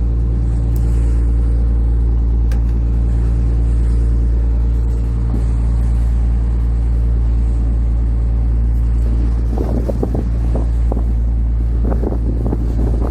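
A boat's engine running steadily with a deep, even hum. From about nine and a half seconds in, irregular choppy noise rises over it.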